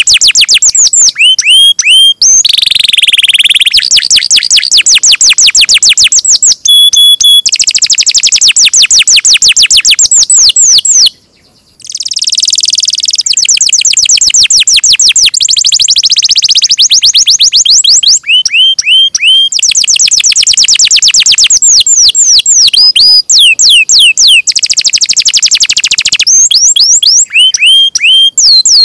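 Songbird singing loudly and close up: long, fast trills of rapidly repeated high chirps with hooked rising notes in between, pausing briefly about eleven seconds in.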